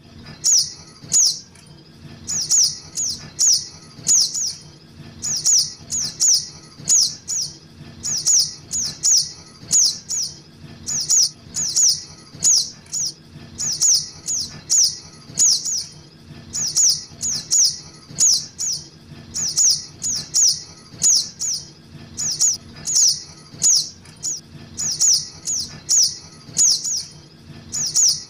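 Calls of juvenile sogok ontong birds, a recording used as a bird lure: short, high, downward-sliding chirps in clusters of two to four, repeating about every second.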